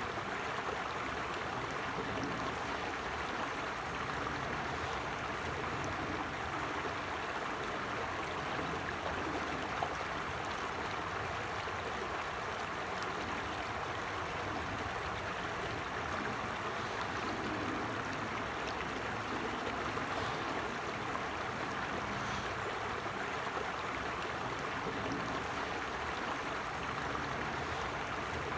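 Creek water flowing steadily over rocks, a continuous even rush with light gurgling.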